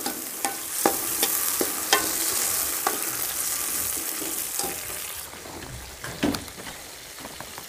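Tomatoes, fried onions and garlic sizzling in hot ghee in a metal kadhai just after a splash of water, with a metal ladle stirring and clinking against the pan. The sizzle is strong for about five seconds, then dies down.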